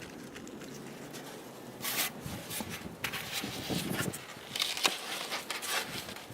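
Wooden beehive cover scraping and knocking as it is slid and set back into place over the hive, a run of irregular scrapes and bumps starting about two seconds in.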